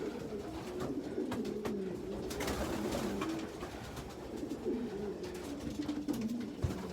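A loft full of young racing pigeons cooing, many low wavering coos overlapping, with scattered light clicks and a brief burst of noise about two and a half seconds in.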